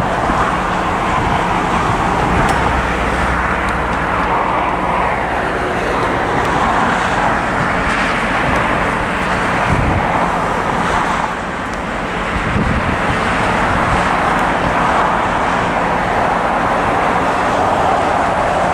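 Steady outdoor roar of engine noise, traffic-like, with a brief lull about eleven seconds in.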